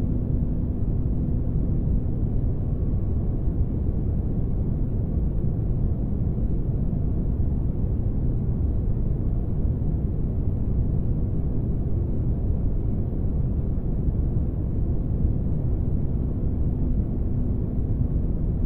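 Synthetic spaceship ambience: a steady, deep rumbling drone of low noise with a faint steady hum, made as white noise for sleep.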